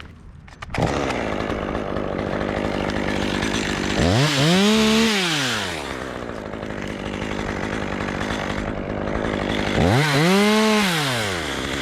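A two-stroke chainsaw starts up about a second in and runs steadily. It is revved up sharply and let back down twice, around four seconds in and again near ten seconds.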